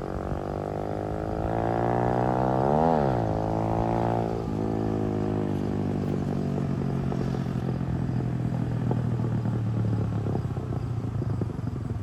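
Small dirt bike's 140cc engine revving: the pitch climbs to a peak about three seconds in and drops back. It then runs at a steady, rough-edged speed.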